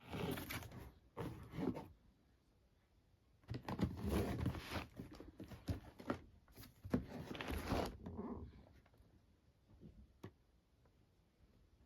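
Packaging being handled and opened for a shoe unboxing: four bursts of rustling, scratchy tearing over the first eight seconds, then a few faint taps.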